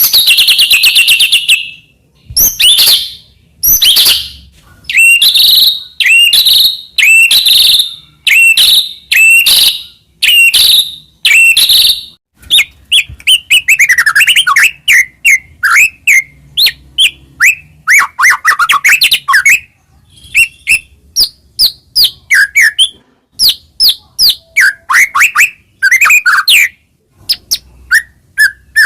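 White-rumped shama (murai batu) singing loudly: a string of repeated short phrases about one every second, then from about twelve seconds in a faster, varied run of short chirps and downward-sweeping notes.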